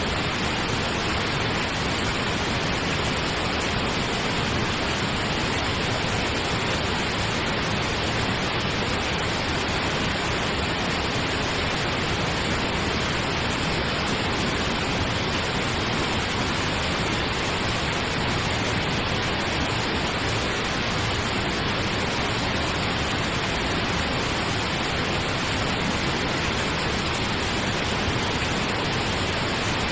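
Steady pink noise for sleep: an even, unchanging hiss with no rhythm or events.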